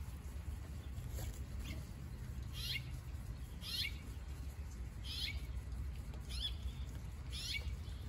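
A small bird chirping: five short chirps that slide down in pitch, about one a second, over a steady low background rumble.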